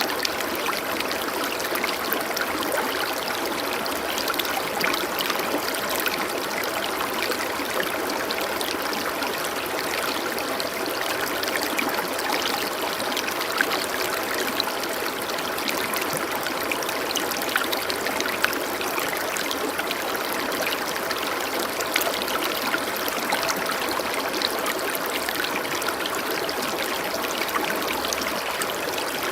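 Running water flowing steadily, a continuous rushing wash with fine trickling and splashing.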